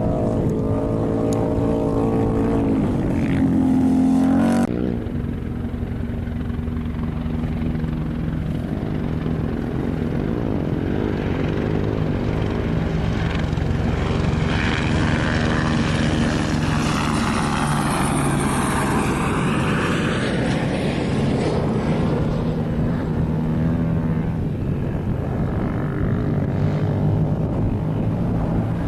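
Engines running steadily, with a louder pass that swells and fades in the middle; the sound changes abruptly about five seconds in.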